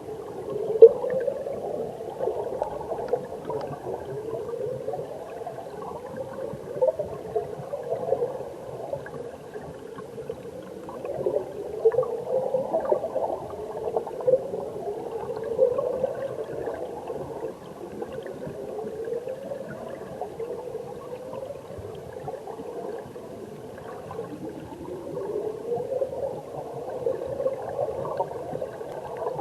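Mountain stream heard underwater: continuous muffled bubbling and gurgling of flowing water, with short rising warbles and a few louder bubble pops.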